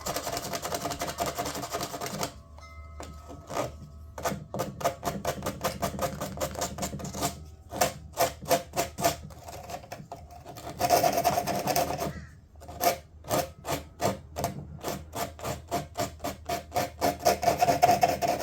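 Sandpaper scrubbed by hand across the edge of a fiberglass panel in quick back-and-forth strokes, about three a second, knocking down thin, ragged one- and two-layer fiberglass edges.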